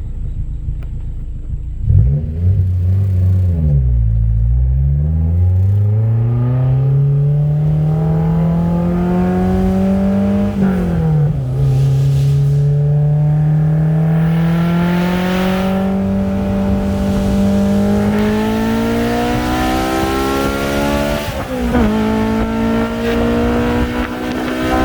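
Honda four-cylinder car engine heard on board. It rises and falls in pitch briefly at first, then accelerates hard with long steady climbs in pitch. Two sharp drops, about eleven and about twenty-two seconds in, are upshifts.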